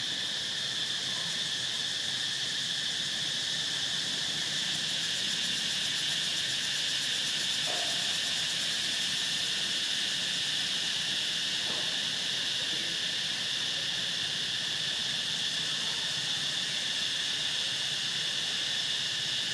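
A steady, high-pitched chorus of insects chirring without a break, with a few faint brief sounds around the eighth and twelfth seconds.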